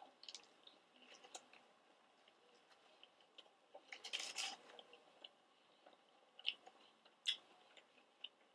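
Faint close-up chewing of a ranch-dipped chicken nugget, with soft mouth clicks and a brief louder noise about four seconds in as a fry is picked up.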